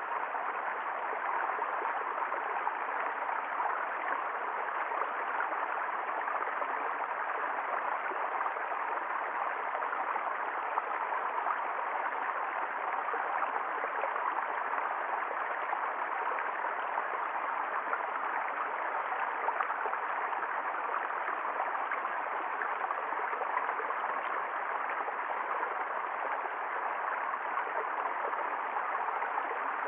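Water flowing down a wadi, a steady unbroken rush of running water.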